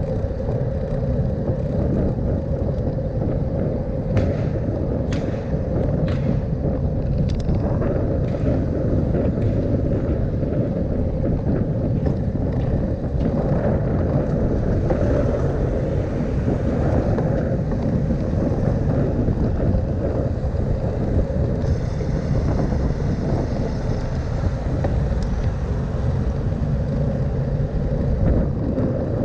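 Steady low wind and road rumble from riding a bicycle, with wind buffeting the microphone. A few short clicks come about four to eight seconds in.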